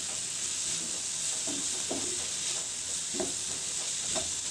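Onions, tomatoes, cashews and whole spices sizzling in oil in a non-stick frying pan, a spatula stirring them and scraping across the pan a few times. It is the onion-tomato masala base being fried before it is ground to a paste.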